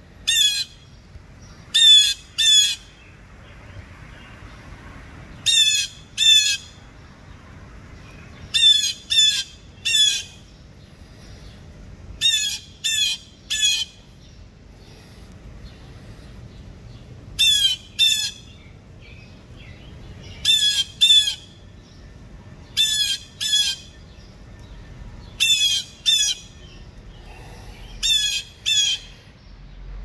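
A bird in the tree giving harsh, squawking calls in pairs or threes, a group about every two to three seconds.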